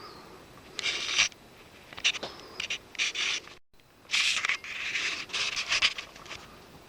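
A series of short scraping strokes, like a hand tool rubbed over a hard surface, with a short break in the middle.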